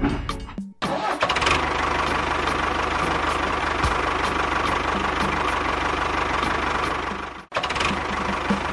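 A small engine running steadily with a fast, even beat, cut off briefly twice, about a second in and again near the end.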